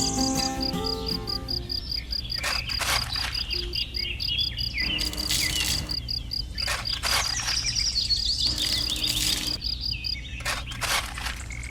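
An insect chirping in a steady run of short high pulses, several a second, with birds chirping over it now and then and scattered clicks; the insect stops about ten seconds in.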